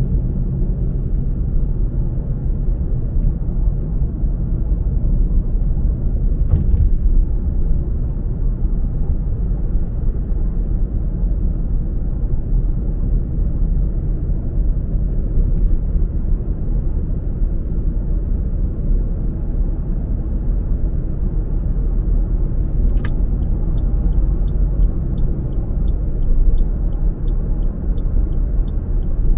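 Car driving on the road: a steady low rumble of engine and tyre noise. Near the end a sharp click is followed by a regular light ticking, about two to three ticks a second, typical of a turn-signal indicator.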